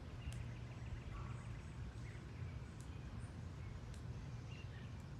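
Faint outdoor ambience: a steady low rumble, with scattered short, high bird chirps and a few sharp ticks.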